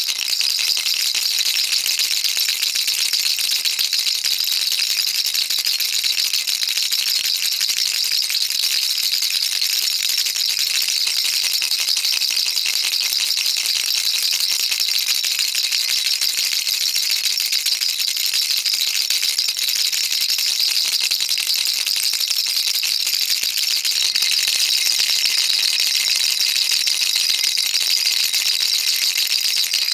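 Baby rattle shaken continuously: a dense, unbroken high-pitched rattling of small beads, steady in level.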